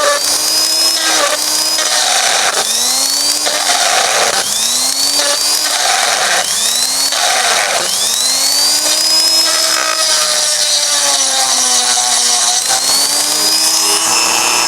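A handheld electric power tool's motor run in repeated short pulses, about nine times. Each time its whine rises in pitch as it spins up and sinks as it slows.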